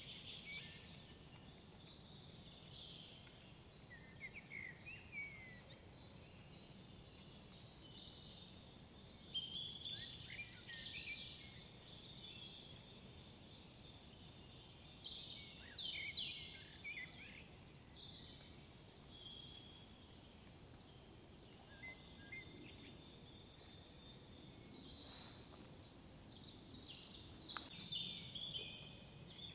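Several songbirds singing in woodland, with overlapping calls and a song phrase that ends in a high trill, repeated every six to eight seconds.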